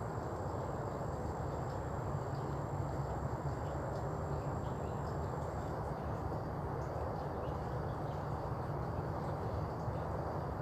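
Steady outdoor background noise: an even low rumble, with a faint high thin insect-like tone that stops about halfway through.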